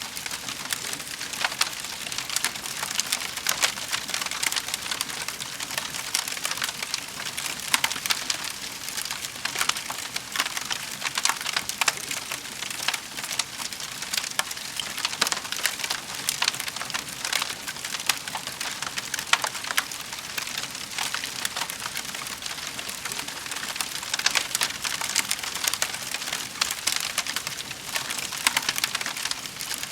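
Wood fire crackling in a fireplace: a dense, steady run of small pops and snaps, with a few louder cracks standing out.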